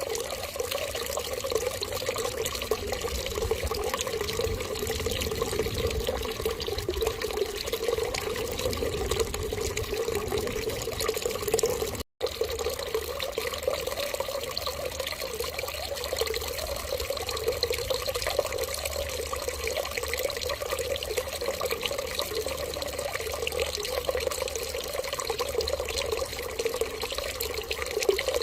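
Steady running water, an even rushing stream, with a momentary cut to silence about twelve seconds in.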